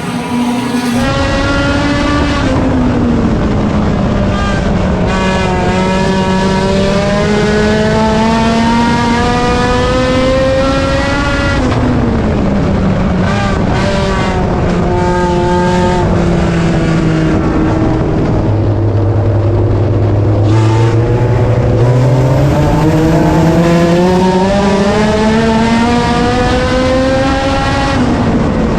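Race car engine lapping an oval: it winds up in pitch down each straight, drops sharply when the driver lifts, and pulls back up out of the turn, one lap every sixteen seconds or so.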